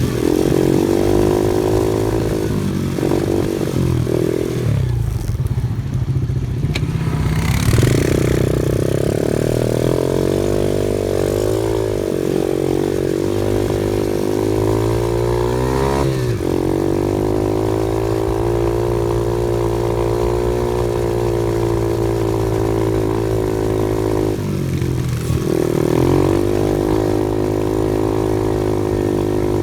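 An off-road vehicle's engine runs steadily under way, its pitch falling and climbing as the throttle changes. It eases off briefly about five seconds in and again near the end, and picks up about eight seconds in.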